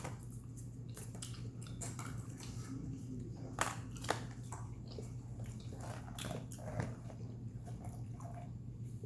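Eating sounds: scattered wet clicks and smacks of chewing, over a steady low hum.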